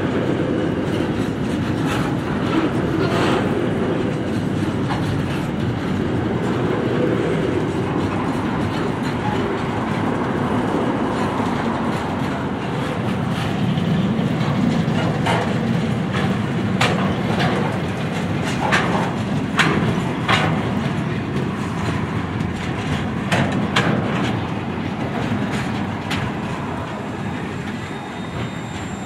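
Intermodal container freight wagons rolling slowly past on steel rails: a steady rumble of wheels with sharp clanks and clicks scattered through, most of them in the second half, easing off slightly near the end.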